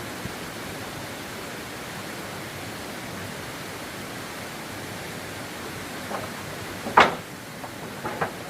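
Steady rushing hiss, with a few short sharp knocks near the end; the loudest comes about seven seconds in, and two quick ones follow just before the end.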